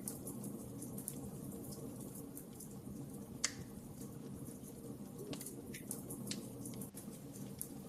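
Wood fire in a fireplace crackling, with scattered sharp pops, the loudest about three and a half seconds in, over a low steady hiss.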